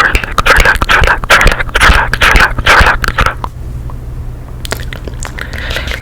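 ASMR mouth sounds close to the microphone: rapid wet clicks and smacks for about three and a half seconds, a short pause, then a few more clicks near the end, over a low steady hum.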